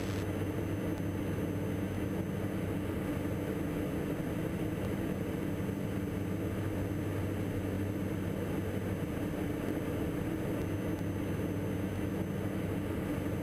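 Steady drone of a Diamond DA42 NG's twin Austro AE300 diesel engines and propellers heard inside the cockpit, an even low hum with no change in power.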